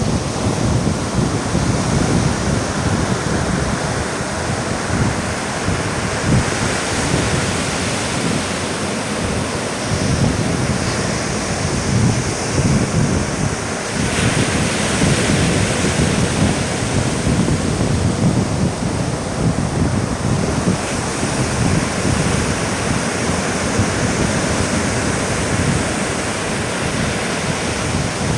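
Surf washing on a beach, a steady hiss of breaking waves, with wind buffeting the microphone in gusty low rumbles. The surf hiss grows stronger about halfway through.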